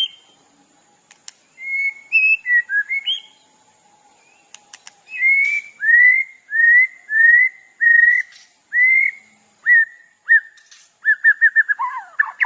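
Songbird singing clear whistled notes: a short phrase of varied notes, then a run of repeated whistles about one and a half a second, ending in a quick burst of notes that drops in pitch.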